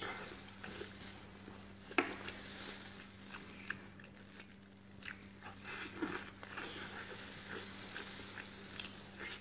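Eating braised pig trotters up close: wet chewing and lip-smacking with the tearing of meat and skin, heard as scattered small clicks, with a sharper click about two seconds in. A faint steady hum sits underneath.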